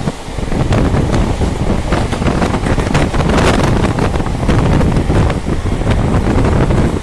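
Moving train heard from on board: a steady low rumble of the running train with wind buffeting the microphone, and scattered short clicks.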